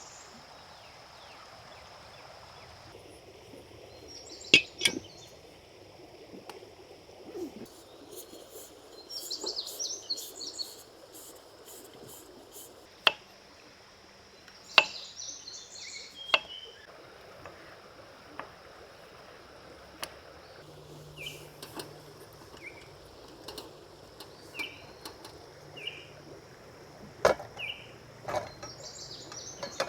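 Flowing creek as a steady background, with birds chirping in short bursts several times. Sharp knocks and clicks come now and then, a few of them loud.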